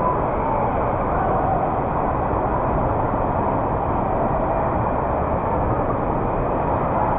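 Steady rushing, rumbling noise of water at an indoor water park, even throughout with no single splash standing out.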